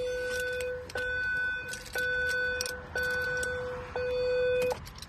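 Dashboard warning buzzer in the cab of a 2019 Iveco Daily beeping steadily about once a second, each beep lasting most of a second, sounding with the engine stopped; the beeping stops near the end.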